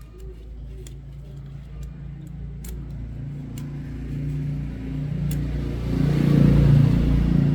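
Motorcycle engine running, growing steadily louder and loudest near the end, with a few light clicks over it.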